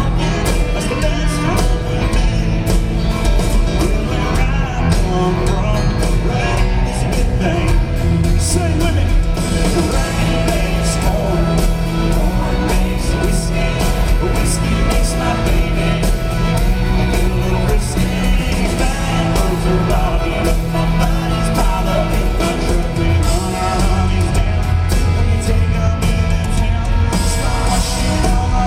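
Live country band music: a male singer over amplified guitars, bass and drums playing steadily throughout.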